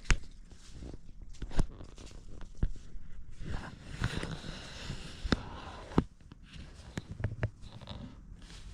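Irregular knocks and clicks of things being handled, with a few seconds of rustling about halfway through.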